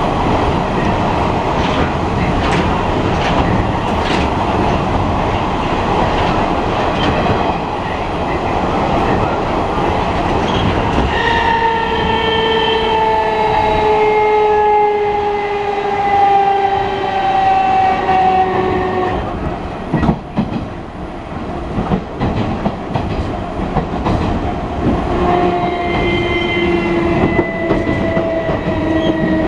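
Enshu Railway 30 series electric train running, heard from inside the car: a loud rumble of its nose-suspended traction motors and wheels on the rail. About ten seconds in, a whine from the motors and gearing sets in and slowly falls in pitch for several seconds. After a few sharp clicks the whine returns near the end, again falling.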